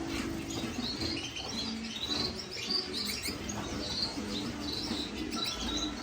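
Many caged finches and canaries chirping together: a steady chorus of short, high overlapping chirps and calls.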